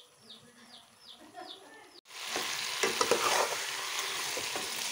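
Chicken and potato pieces sizzling in hot oil in an aluminium pot, with a metal ladle stirring and scraping against the pot. It is preceded by about two seconds of faint, short high bird-like peeps, about three a second, which stop abruptly as the sizzling begins.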